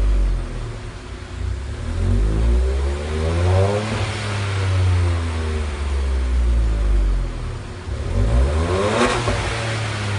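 2016 Ford Fiesta 1.0 three-cylinder engine running through a Thunder aftermarket supercar-style rear muffler, idling and revved twice, its pitch rising and falling back, about four seconds in and again near the end.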